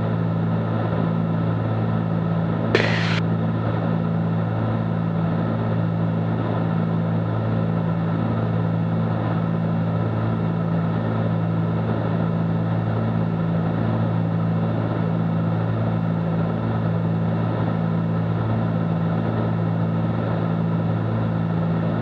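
Steady drone of the Cessna 310Q's twin piston engines and propellers in cruise, heard inside the cabin, holding one even pitch. A single short click sounds about three seconds in.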